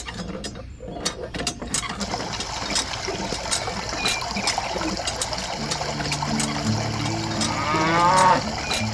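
A cow mooing once, loud, near the end, over background music, with scattered clicks earlier on.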